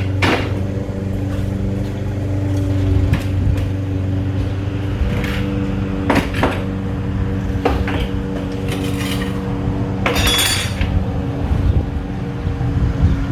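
Metal pieces clinking and clanking as they are handled, with scattered sharp knocks and a longer, louder scraping clatter about ten seconds in, over a steady low electrical hum.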